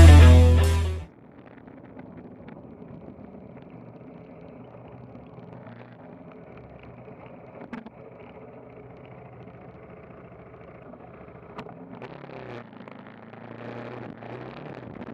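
KTM 390 Adventure's single-cylinder engine running steadily and quietly on an unpaved lane, getting louder with more wind noise from about twelve seconds in. Intro rock music cuts off about a second in.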